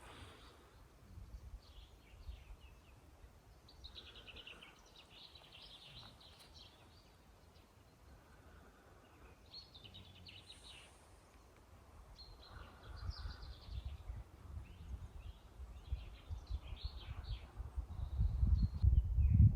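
Small birds chirping and singing in short, scattered phrases over a quiet outdoor background. A low rumbling grows louder in the second half.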